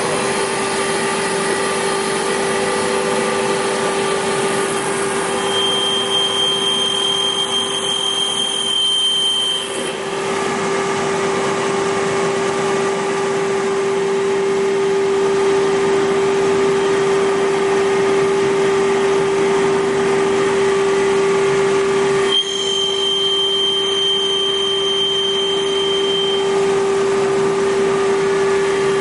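CNC wood-turning lathe running with a steady hum. A high whine joins twice, for about four seconds each time.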